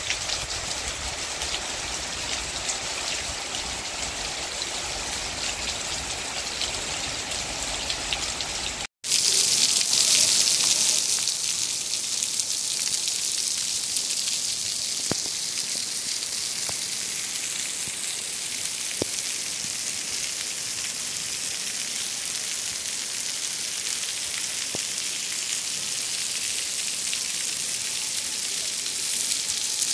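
Steady rain falling on dense foliage. About nine seconds in, after a sudden cut, it turns to rain pouring onto a wet paved street with standing water, a brighter and slightly louder hiss.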